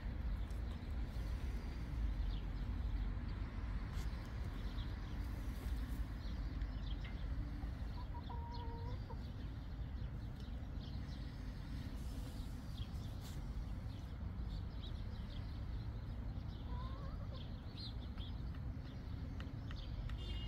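Hens clucking in a henhouse, with a few short calls, one rising near the end, and scattered light ticks, over a steady low rumble.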